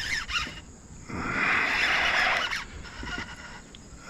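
A hooked bass splashing and thrashing at the surface of a grass mat, one burst of splashing about a second and a half long, starting about a second in.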